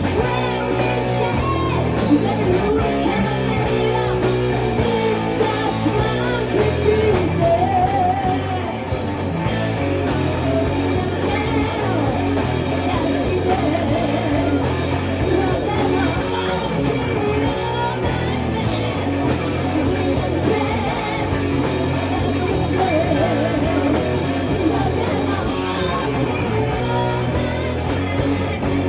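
Live rock band playing a hard rock song: electric guitar and band with lead vocals singing over it.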